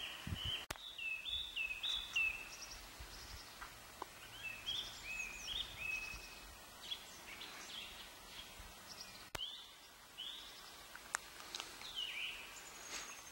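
Small songbirds chirping and singing in leafless spring woodland, a string of short, quick, hooked notes repeating throughout over a faint outdoor hiss.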